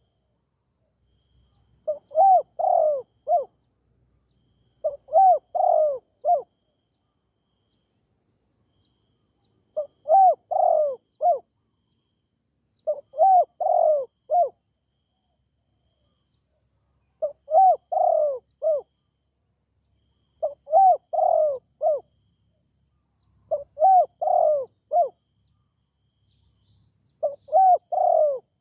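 Spotted dove cooing: a phrase of several short notes, repeated about eight times with gaps of a couple of seconds between phrases.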